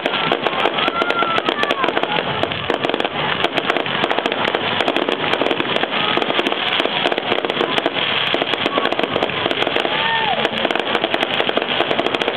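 Fireworks finale barrage: a dense, continuous run of rapid bangs and crackling with no let-up, and a few whistles gliding up and down in pitch over it.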